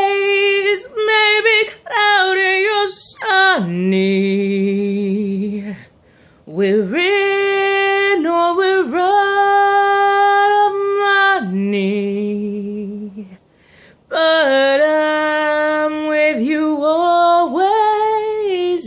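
A woman's solo voice singing a cappella. She sustains long held notes with slides and vibrato, in three phrases broken by short pauses about six seconds in and again about halfway through.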